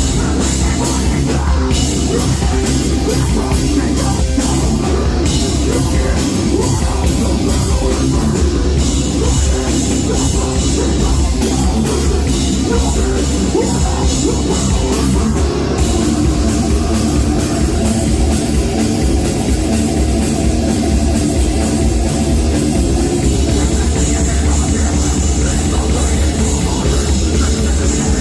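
Live heavy metal band playing loud, with heavy bass, guitars and a dense drum kit.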